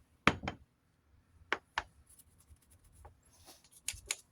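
Hands handling a box fan's parts: several sharp clicks and taps, the loudest just after the start, with a brief rubbing sound a little past the middle.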